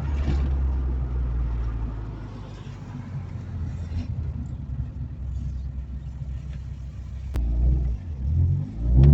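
VW Fox's 1.9i engine and new exhaust running under way: a steady low drone that eases off about two seconds in. Near the end, after a sharp click, the engine note rises in pitch twice as the car accelerates.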